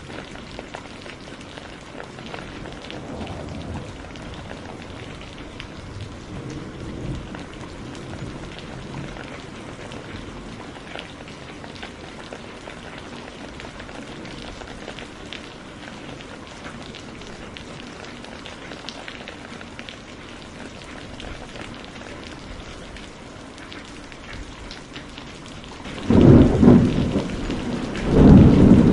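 Steady rain falling, with two loud rumbles of thunder near the end.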